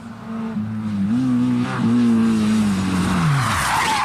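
Rally car engine running hard, with a short rise in revs about a second in; its note then falls steadily as the car passes. Near the end comes a burst of skidding, tyre noise.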